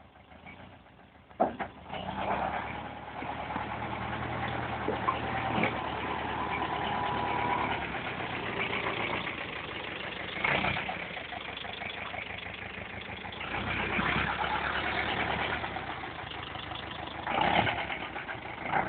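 Forestry tractor engine starting with a sharp onset about a second and a half in, then running, its level rising and falling several times.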